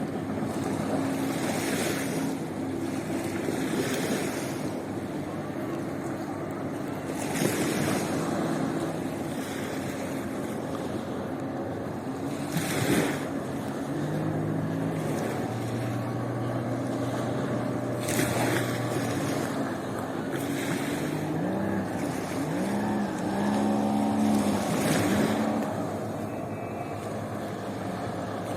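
Sea waves washing onto a beach, swelling every few seconds, with wind on the microphone. Under the waves runs a low steady hum that shifts pitch several times, like a distant motor.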